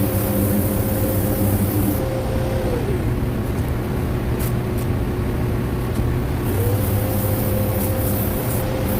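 Steady machine hum with a high hiss. About three seconds in, the hum's pitch slides down and the hiss stops; near six and a half seconds the pitch slides back up and the hiss returns.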